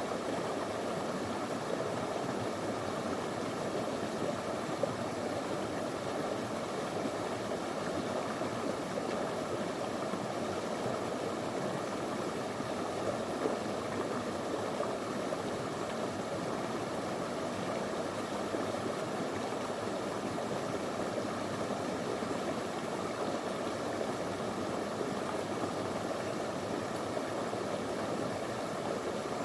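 Small shallow river flowing over stones, a steady, even rush of water.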